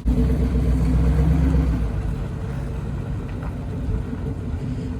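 A truck's newly swapped engine running, with a sudden louder low rumble for the first two seconds that then settles to a steady run.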